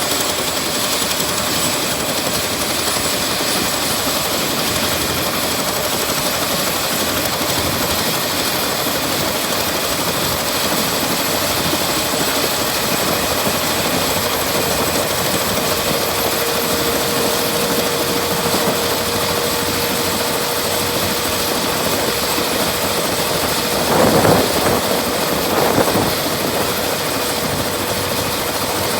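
Airbus H125 helicopter's single Safran Arriel turboshaft engine running during startup, with a steady high turbine whine over a constant rush of engine and rotor noise. Two brief louder swells come near the end.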